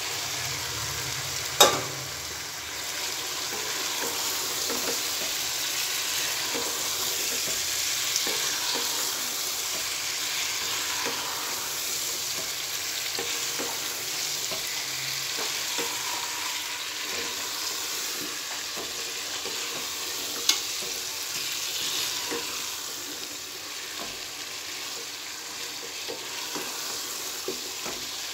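Potatoes and eggplant sizzling in masala in a nonstick pot while a wooden spatula stirs and scrapes through them. There are two sharp knocks, one just under two seconds in and one about twenty seconds in.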